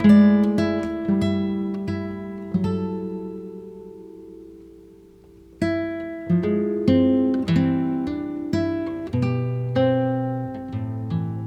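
Background music on acoustic guitar: plucked notes and chords, one chord left to ring and fade for about three seconds before the picking starts again.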